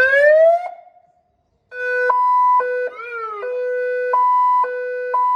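Fire truck's electronic siren run through its tones: a short rising whoop that cuts off, then after a pause a run of steady tones stepping between a lower and a higher note, with a quick up-and-down swoop about three seconds in.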